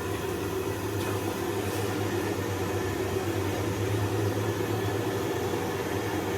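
Overhauled generator engine running at a steady speed, an even hum with no change in pitch.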